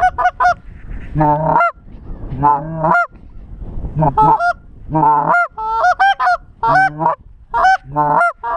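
Goose honks and clucks, loud and close: a fast run of short clucks at the start, then repeated groups of honks that break from a low note up to a higher one.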